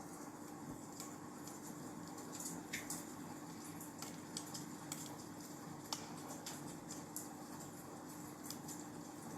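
Wood fire crackling in a fireplace: irregular small pops and snaps, a few louder than the rest, over a faint steady hiss and a low hum.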